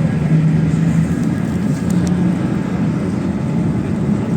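PAZ 32054 bus engine running under way, its drone steady over road noise and stepping up slightly in pitch about a second and a half in.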